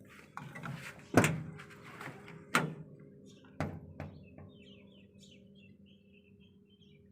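Several sharp knocks, the loudest about a second in, over a steady low hum, followed by a short run of faint high chirps.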